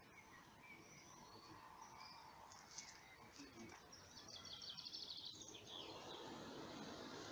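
Faint birds chirping over quiet outdoor background noise, with a quick rapid run of chirps about two-thirds of the way through. A car passes faintly toward the end.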